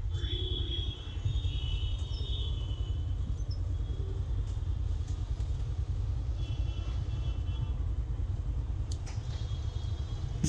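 Riding noise from a Yamaha FZ-X motorcycle, dominated by a steady low wind rumble on the microphone, with high chirping now and then in the background.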